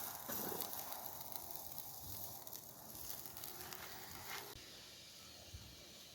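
Chicken steak sizzling over a campfire: a steady frying hiss with a few light crackles, growing quieter a little after four seconds in.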